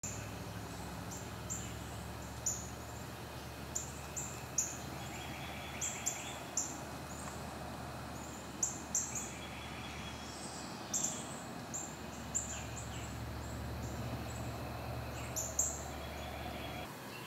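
Woodland birds singing: short high chirps repeating irregularly every half second to second, with a few longer lower notes. A steady low hum runs underneath.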